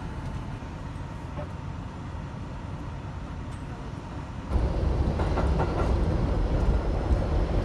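Subway train running, a steady low rumble that turns abruptly louder, with rattling, about four and a half seconds in.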